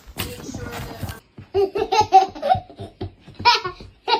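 A person laughing in a run of quick, short bursts.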